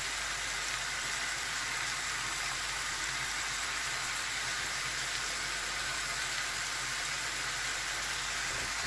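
Meat rolls and onions frying in oil in a skillet: a steady, even sizzle.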